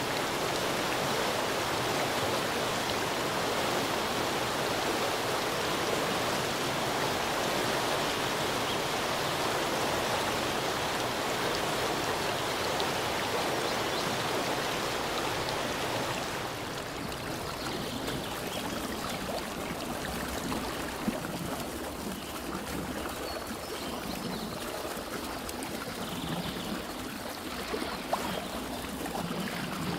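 Stream water flowing steadily. About halfway through it cuts abruptly to a softer, thinner water sound with a few faint clicks and ticks.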